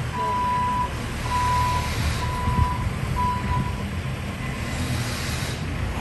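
Reversing alarm on a construction vehicle beeping four times, about once a second, over the low rumble of its engine.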